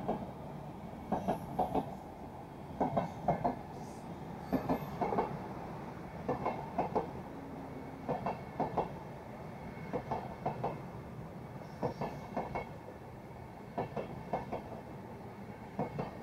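Intercity passenger coaches rolling past, their wheels giving a rhythmic clickety-clack over the rail joints. Each group of two or three quick knocks comes as a bogie pair passes, about every two seconds, over a steady rolling rumble.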